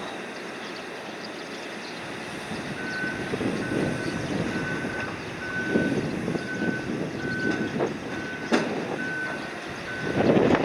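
A warning beeper on the cargo-handling machinery sounds a steady high beep about once a second, nine times, over a noisy background rumble, with one sharp click near the end.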